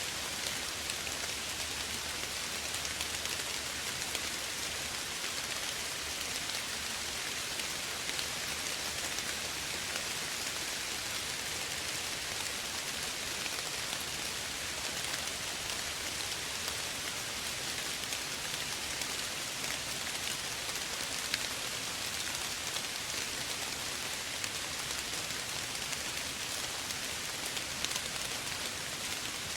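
Steady light rain falling, an even hiss of many small drops pattering on a surface.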